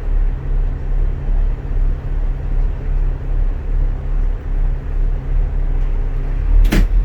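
Bus engine and road noise heard from inside the cabin while moving: a steady low drone that swells and dips about twice a second. A short, sharp burst of noise comes near the end.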